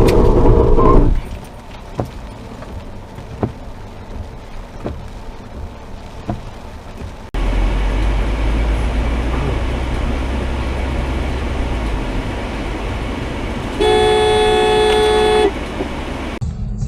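Car horns sounding in road traffic: a horn blast that ends about a second in, then road noise with occasional knocks. After an abrupt change to a steady low vehicle rumble, another car horn sounds one steady blast for about a second and a half near the end.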